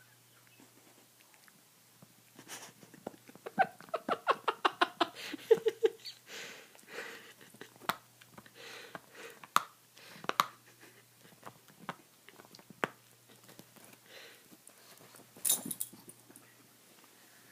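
Dog chewing and gnawing on a bone: irregular sharp clicks and crunches of teeth on bone, with a dense run of rapid gnawing about four to six seconds in and scattered bites after.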